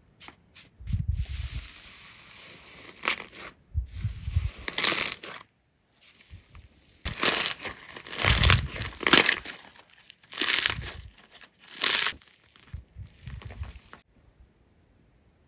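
Slime being squeezed and pressed by hand: about a dozen noisy, crackly bursts, some with a low thud beneath. The bursts stop shortly before the end.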